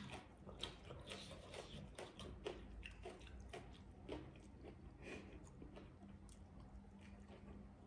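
A person chewing a mouthful of food with the mouth closed: faint, soft, irregular wet mouth clicks.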